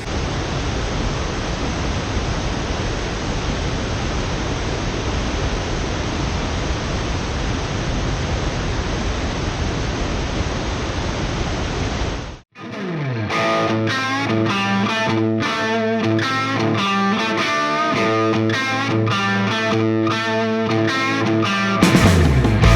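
Steady rushing of a waterfall for about twelve seconds, then a sudden cut to rock music led by guitar.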